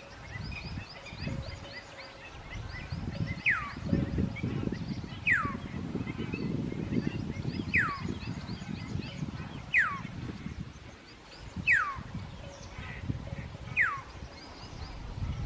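A bird calling over and over, each call one sharp down-slurred note, about every two seconds, with faint rapid twittering of other birds higher up and an uneven low rumble underneath.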